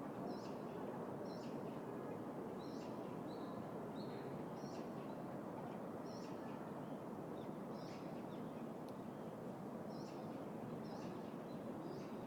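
Steady low hum of the city around a park, with a small bird repeating a short high call about once a second over it.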